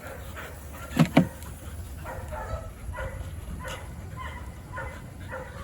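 Two dogs playing: two short, loud barks about a second in, then a run of short, rhythmic dog vocal sounds at roughly two a second.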